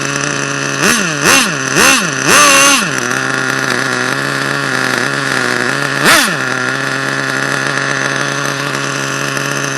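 HPI 4.1 nitro engine in an RC truck idling steadily, blipped up in revs four times in quick succession about a second in and once more about six seconds in. Each rev rises and falls straight back, which the owner takes for a stripped gear.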